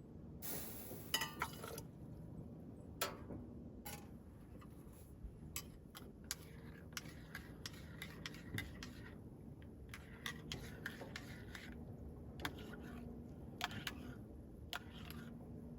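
Light clicks, taps and a brief rustle from small objects being handled, scattered irregularly, over a faint steady low hum.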